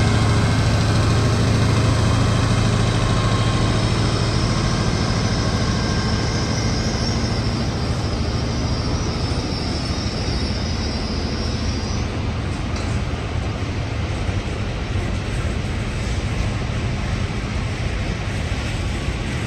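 A train at the station, its engine hum fading gradually. A thin high-pitched whine runs from about four seconds in and stops abruptly about twelve seconds in.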